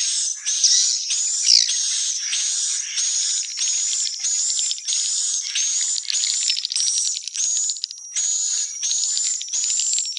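Swiftlets twittering: high, buzzy chirps with a fast clicking trill, repeating about twice a second without pause.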